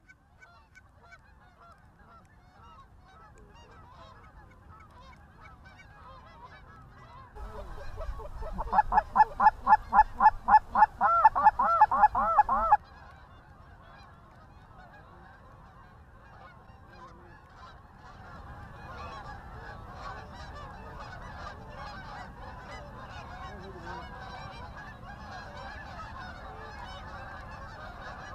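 Canada geese honking, many overlapping calls from a flock. About eight seconds in comes a loud, close run of rapid honks, about four a second, which stops abruptly some five seconds later. The flock's honking then builds again, denser and louder, toward the end.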